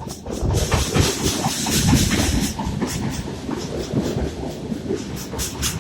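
Passenger train running on the rails, a steady rumble of wheels with irregular clicks and knocks and a hiss over the top, louder in the first half.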